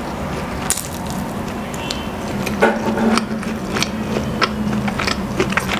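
Close-miked eating: crisp lettuce salad being bitten and chewed, with many short irregular crunches and crackles over a steady low hum.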